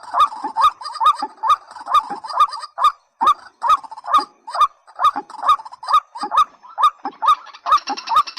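White-breasted waterhen calling: a fast, even run of short, sharp, rising 'kwak' notes, about two to three a second. A high hiss joins in near the end.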